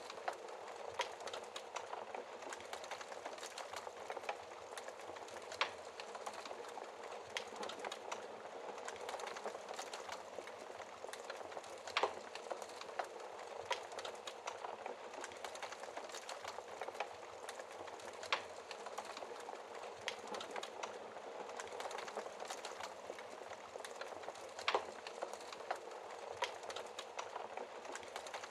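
Wood fire in a fireplace crackling steadily: a soft constant hiss of flames with many small snaps and an occasional sharper pop, about every five or six seconds.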